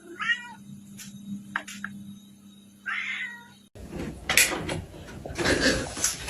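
A domestic cat meowing: a short meow near the start and another about three seconds in, with a few light clicks between. After that comes a louder jumble of rustling and knocks.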